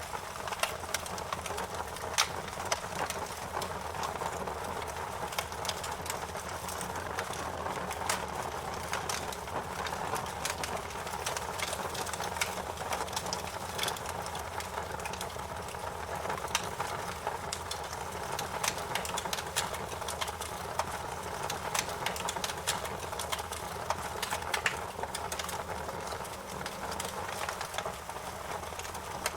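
Campfire burning: a continuous rush of flames with irregular sharp crackles and pops throughout, a few of them louder than the rest.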